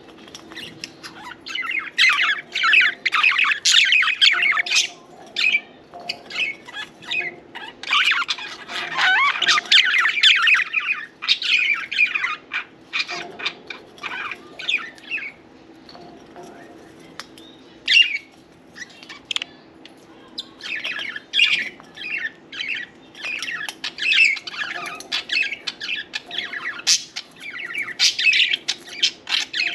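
Several budgerigars chirping and chattering in rapid bursts, busiest about two to five seconds in, again from about eight to twelve seconds, and near the end, with sparser chirps in between.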